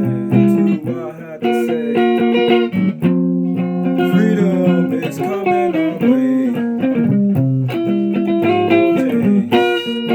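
Electric guitar being played: held chords and single notes that change every second or so, with several notes bent up and down in pitch.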